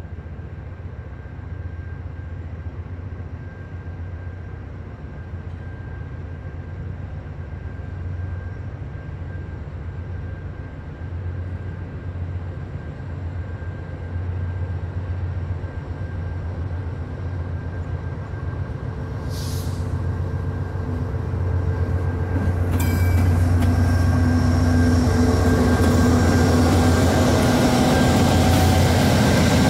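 Norfolk Southern freight train's diesel locomotives approaching: a steady low engine drone that grows clearly louder about three-quarters of the way in, joined by rising wheel and rail noise.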